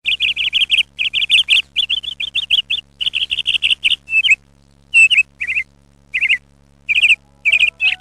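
A small bird chirping in quick runs of rapid, high chirps, each run about a second long, broken by short pauses, over a faint steady hum.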